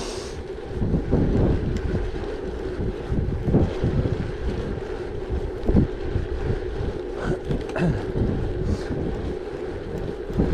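Wind buffeting the microphone of a moving gravel bike, in irregular gusts over the steady rolling rumble and hum of its tyres on the track.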